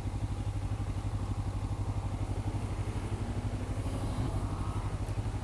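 Motorcycle engine idling with an even, rapid pulse.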